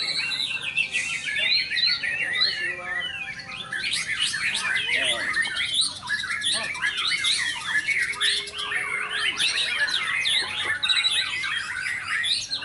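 Several small songbirds chirping and squawking over one another in a dense, continuous chorus of quick high notes.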